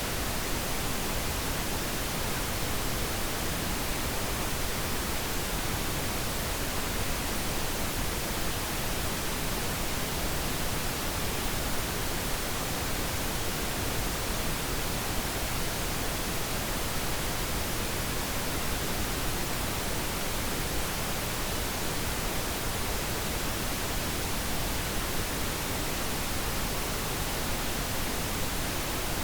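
Steady pink noise: an even, unbroken hiss across the whole range, constant in level.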